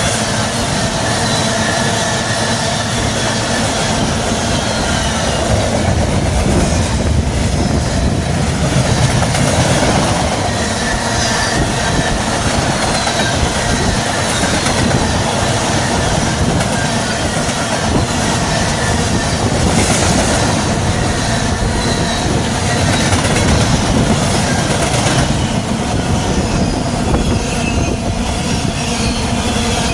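Manifest freight train's cars rolling steadily past, wheels on the rails, with faint wheel squeal.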